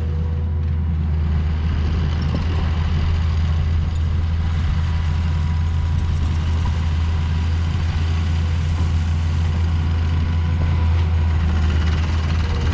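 Heavy diesel equipment engine running steadily at an even speed, a deep constant drone.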